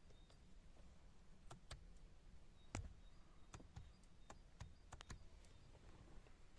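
Near silence broken by a series of faint, irregular clicks, the loudest about three seconds in.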